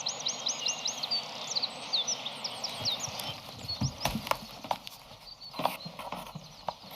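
Birds chirping over a steady background hiss: a rapid run of high, quick chirps at the start, then scattered chirps that stop about three seconds in. After that come several sharp knocks at uneven intervals.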